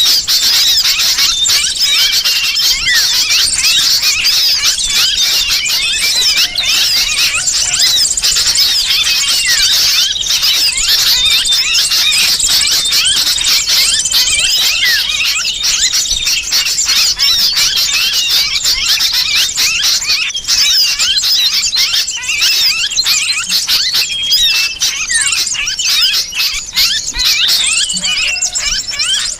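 Bird-lure recording: a dense, unbroken chatter of many small birds mixed with the shrill squealing distress calls of a trapped sooty-headed bulbul, made to draw small birds in.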